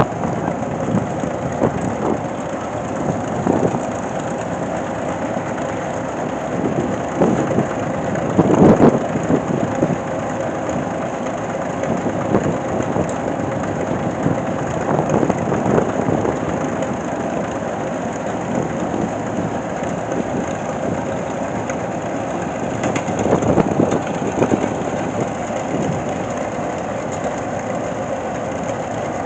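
Heavy machinery running with a steady, noisy rumble and a faint hum, surging louder now and then, most strongly about nine seconds in and again near the end.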